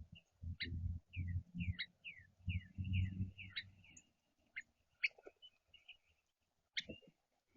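Small songbirds chirping: many short, quick downslurred notes in a loose series. Through the first half, louder low thumps and rumbles close to the microphone sit underneath, with a couple more knocks near the end.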